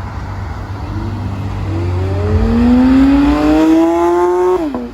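A sports car's engine accelerating hard, its pitch climbing steadily for about three seconds, then dropping sharply near the end as it shifts up a gear.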